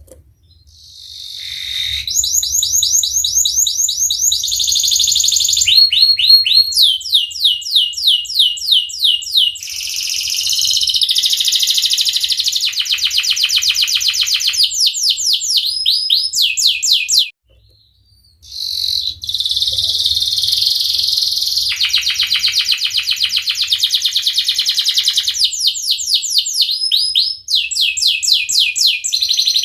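Domestic canary singing a long, high-pitched song of rapid rolling trills and repeated chirps, changing from one trill to the next every second or two, with a pause of about a second midway.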